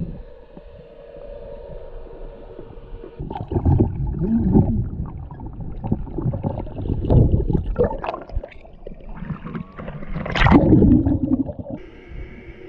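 Lake water sloshing and splashing close to the microphone in irregular surges, with one sharper splash about ten and a half seconds in. A jet ski's engine hums faintly near the end.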